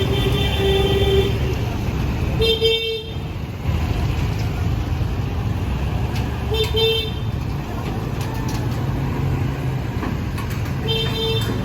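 Short vehicle horn honks over steady street traffic: two quick honks at the start, then single honks about two and a half seconds in, midway and near the end.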